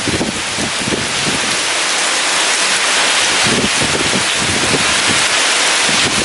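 Heavy rain falling steadily, a dense hiss, with strong wind buffeting in irregular gusts underneath.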